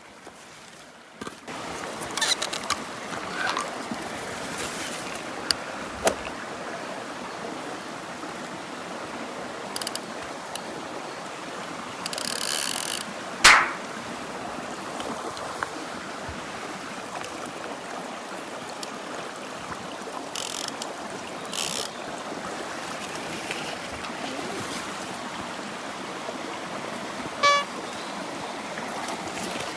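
Stream water running steadily, with scattered sharp knocks and rustles, the loudest one a bit under halfway. A short, honk-like pitched tone sounds near the end.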